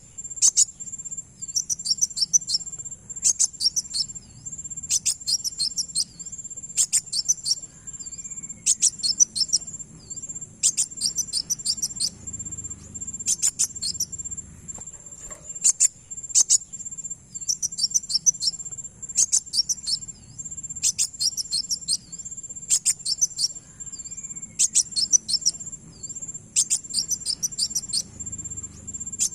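Kolibri wulung (kowul) sunbird song: short bursts of rapid, high, chattering notes, repeated about every two seconds. A steady, high, insect-like trill runs underneath.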